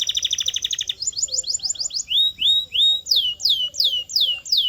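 Canary singing: a very fast, even trill that switches about a second in to a run of quick sweeping whistles, some rising, then to longer falling whistled notes at about three a second.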